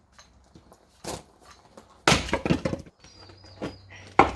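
Axe splitting firewood: a light strike about a second in, then a loud chop with the wood cracking apart, and another sharp strike near the end.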